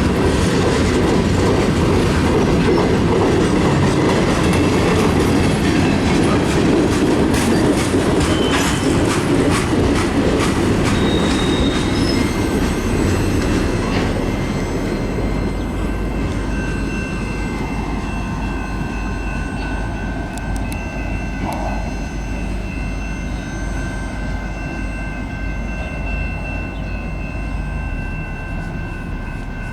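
Mixed freight train cars rolling past, the wheels clicking over the rail joints. From about halfway through, a steady high-pitched squeal from the wheels sets in while the rumble eases slowly.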